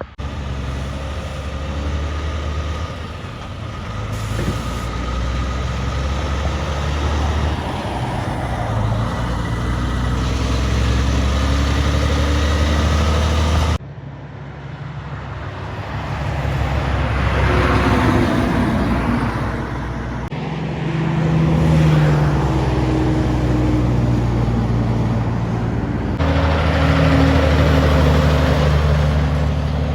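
Heavy Kenworth cabover trucks' diesel engines running as the trucks drive by, the engine note swelling and easing. The sound cuts off suddenly about 14 seconds in and changes again twice later, as separate passes follow one another.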